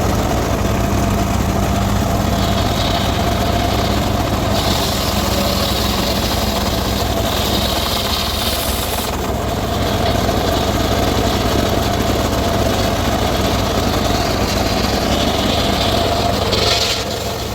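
Circular saw running steadily with a constant hum, cutting into teak wood in long stretches, from about four seconds in and again near the end.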